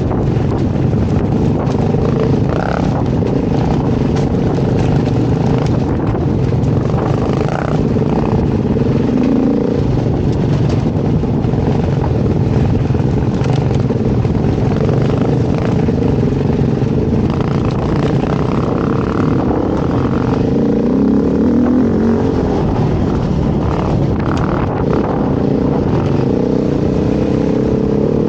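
Dirt bike engine running while riding, its revs rising and falling again and again as the throttle is worked.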